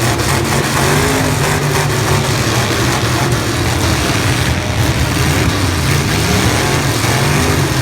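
Demolition derby cars' engines running loudly and revving, a dense wash of engine noise over a steady low drone.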